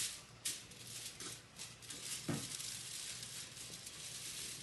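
Aluminium foil crinkling in two short bursts as it is passed under a beef rib being wrapped, then a steady faint hiss with a brief low sound just past halfway.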